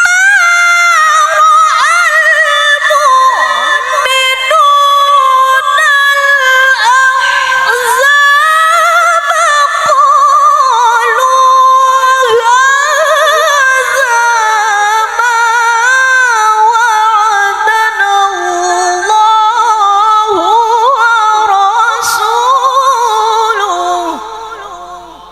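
A woman reciting the Quran in the melodic mujawwad style: one long, heavily ornamented phrase sung high with strong vibrato. It sinks gradually in pitch and fades away near the end.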